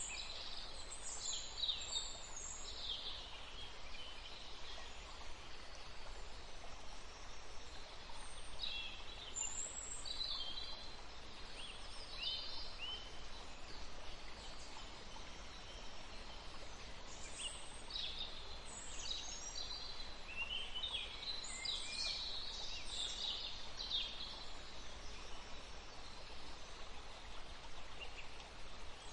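Small birds chirping in scattered bouts of short, high calls over a steady hiss of outdoor background noise.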